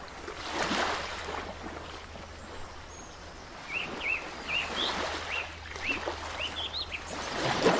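Outdoor ambience: a soft rushing noise that swells and fades, over a faint steady low hum. From about four seconds in, a bird chirps about a dozen times in quick short notes, each rising then falling.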